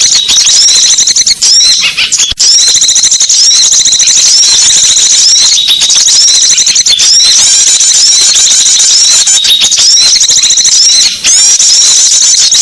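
Dense chorus of small songbirds chirping and twittering without a break, many quick high notes and short glides overlapping: a small-bird lure (pikat) call recording played at full level.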